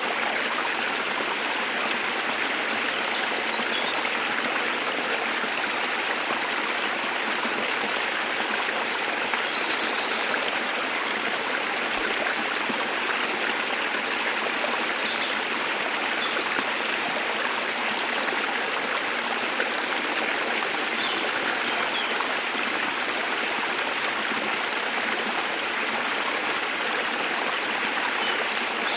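Steady rush of falling water from a waterfall, even and unbroken. Faint, brief bird chirps come through now and then above it.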